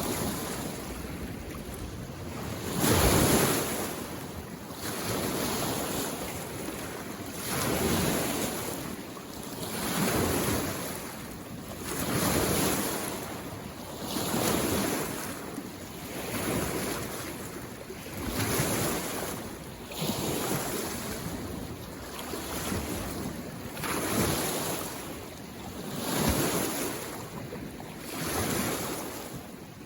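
Small lake waves washing in on the shore in a steady rhythm, one every two seconds or so, each a soft rush of water that swells and fades.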